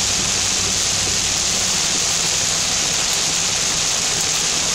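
Heavy thunderstorm rain on a car's windshield and roof, heard from inside the moving car as a loud, steady hiss. A low steady hum from the car runs underneath.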